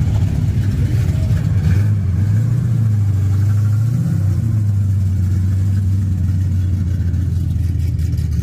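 A car engine running steadily with a low drone, its pitch rising briefly about four seconds in.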